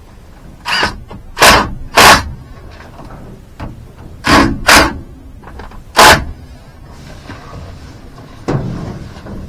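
About seven loud, sharp knocks at uneven intervals, several of them in quick pairs, like hard blows struck on something solid.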